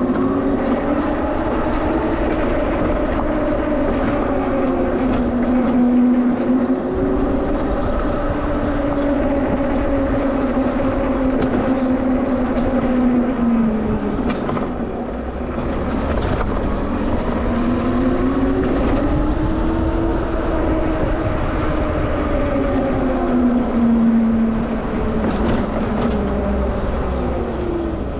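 Electric bike motor whining while ridden, its pitch climbing and falling in long arcs as the bike speeds up and slows, over a low wind rumble.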